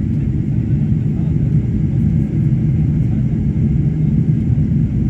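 Steady low rumble of a Boeing 747-400 in flight, heard from inside the passenger cabin: engine and airflow noise.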